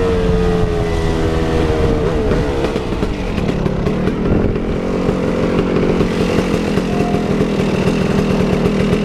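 KTM 380 EXC two-stroke dirt bike engine running; its pitch drops over the first couple of seconds as the revs come down, then holds a steady note.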